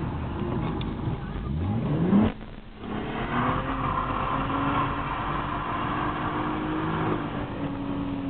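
BMW E36 320i's straight-six engine heard from inside the cabin. It revs up steeply to a loud peak about two seconds in, drops away abruptly for half a second, then pulls again and holds high revs through a bend. It eases off slightly near the end.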